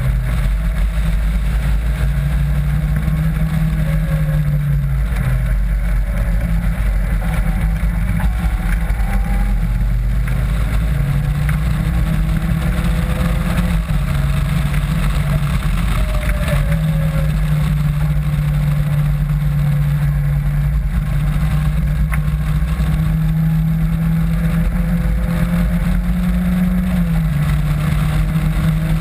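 Caterham Classic sports car's engine running hard on track, heard from onboard in the open cockpit with heavy wind rumble. The engine note rises and drops several times as it works up and down through the gears.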